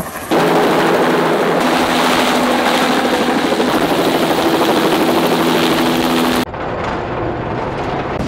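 Agricultural spray helicopter passing low overhead, its rotor and engine loud and steady. About six and a half seconds in the sound drops abruptly to a lower level.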